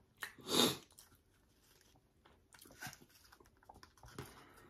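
Close-miked eating sounds of fast food: a louder bite about half a second in, then quiet chewing with small scattered clicks.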